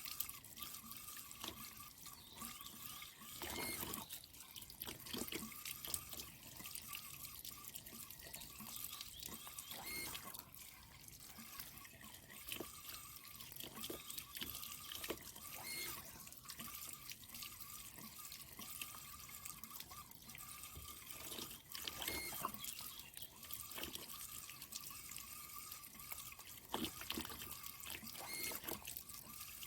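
Creek water running and trickling through a water-tank filter, with dripping and occasional louder splashes or knocks.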